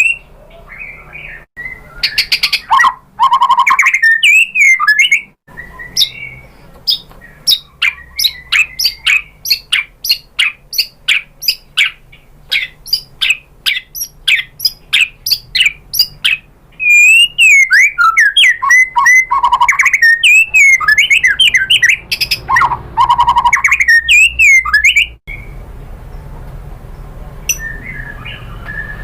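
White-rumped shama (murai batu) singing: loud bursts of warbled whistles, then a long run of sharp ticking notes about two a second, then more loud, rich whistled phrases, dropping to quieter calls near the end.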